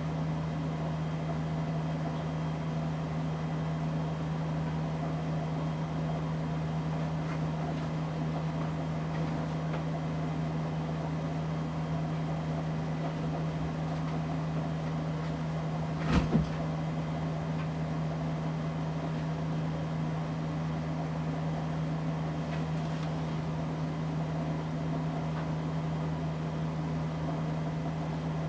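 Casablanca Delta ceiling fan running, its motor giving a steady hum with one strong low tone. A single short knock sounds about halfway through.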